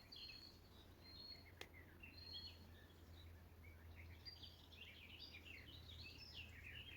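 Near silence with faint birdsong from small birds: scattered short chirps and a few thin whistles, growing busier in the second half, with one faint click about one and a half seconds in.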